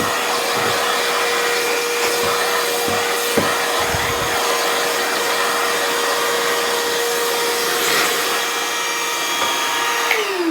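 Vacuum cleaner running steadily with a constant motor whine as it sucks up ground-off dead skin, with a few light knocks of the nozzle. Near the end it is switched off and the motor winds down in a falling pitch.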